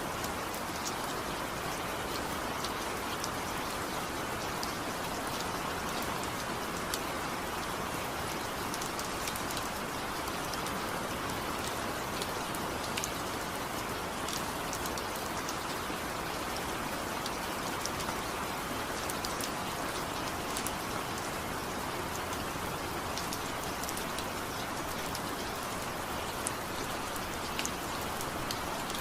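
Steady rain falling, an even hiss with many small drop ticks spread through it, without thunder.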